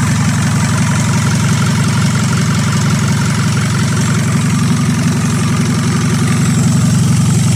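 Isuzu 4HF1 4.3-litre four-cylinder diesel engine idling steadily.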